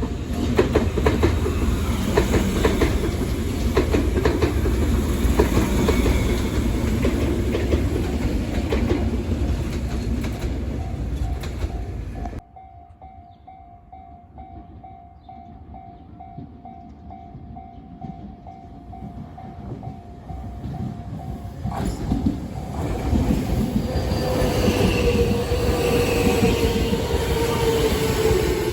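Chikuhi Line train passing over a level crossing, wheels clattering, while the crossing's warning bell rings steadily. About twelve seconds in, the train noise cuts off abruptly, leaving only the ringing bell. Ten seconds later a train comes through again, with a slowly falling whine near the end.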